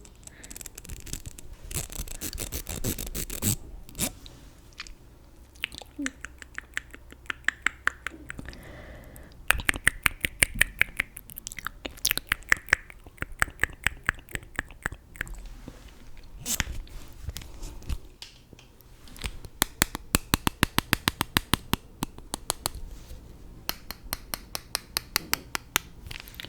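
Close-miked makeup ASMR trigger sounds: runs of quick taps and scrapes, several strokes a second, coming in bursts of a few seconds with short pauses between.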